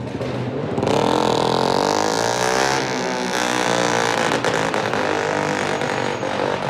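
A high-performance car engine revving hard, its pitch climbing and falling, with some sharp crackles in the second half.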